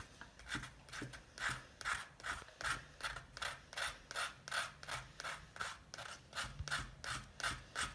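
Knife blade scraping the striking strip off the side of a cardboard matchbox in quick, even back-and-forth strokes, about three a second.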